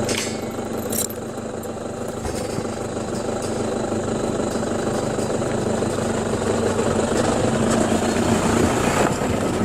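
A car's engine and road noise running steadily, heard from inside the moving car.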